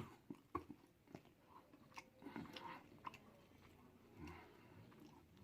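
Faint close-up chewing of deep-fried turkey tail, with wet mouth noises and scattered small clicks, one sharp click at the very start.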